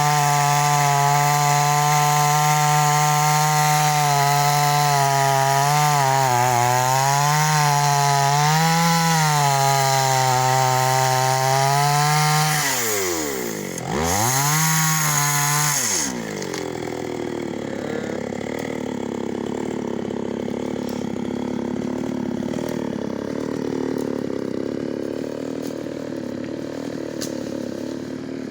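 Chainsaw engine running at high speed while cutting wood, its pitch wavering under load. About 13 seconds in, the pitch swoops sharply down and back up. A couple of seconds later the engine drops to a quieter, lower idle.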